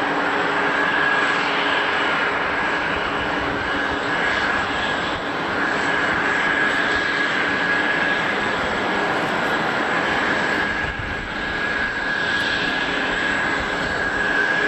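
Jet airliner engines running: a steady dense rush of noise with a high, even whine held throughout and some lower steady tones beneath.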